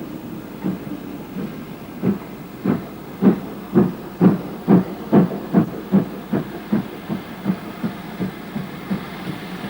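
Two-cylinder GWR Modified Hall 4-6-0 steam locomotive working hard, its exhaust chuffing in a steady beat that quickens from under two to about three beats a second. The chuffs grow loudest around the middle and then fade as it passes and draws away.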